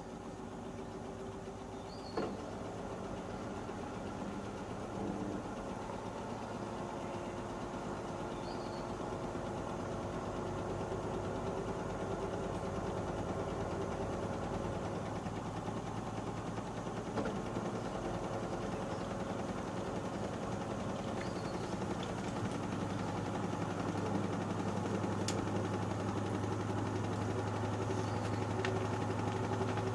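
Panasonic NA-147VB2 inverter washing machine running: a steady motor hum with drum noise that grows gradually louder, with a few light clicks.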